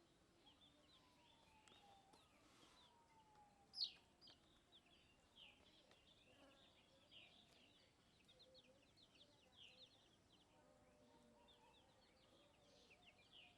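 Faint birds chirping: a steady stream of many short, high chirps, with one louder chirp about four seconds in and two lower falling whistles before it.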